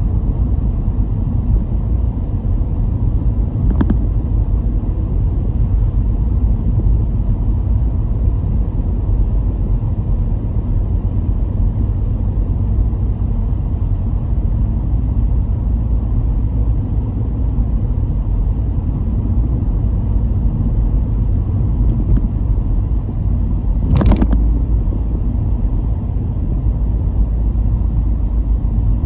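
Car driving at steady speed: a low, even rumble of road and engine noise, with one sharp knock about three-quarters of the way through.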